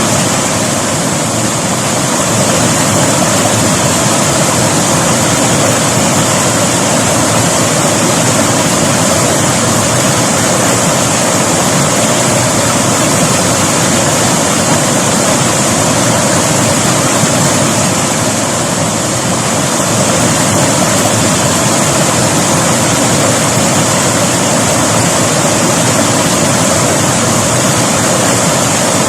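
River water flowing in a steady, loud rush.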